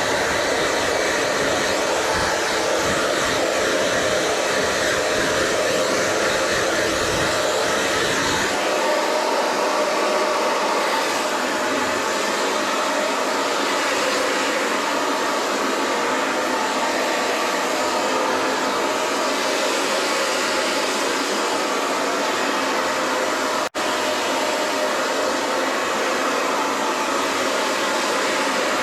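Hair dryer blowing steadily. The low rumble under the airflow drops away about a third of the way in, and the sound cuts out for a split second about two-thirds of the way through.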